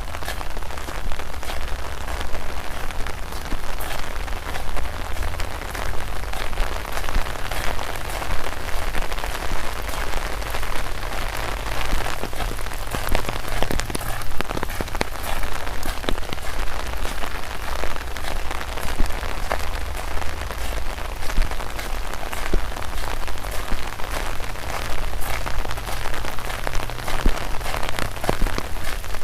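Steady rain with many separate drops tapping close by, over a low rumble.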